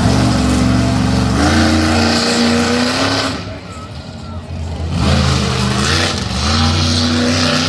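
Monster truck engine revving hard in two long pulls, the pitch stepping up once in the first. It eases off for about a second and a half in the middle, then comes back strongly.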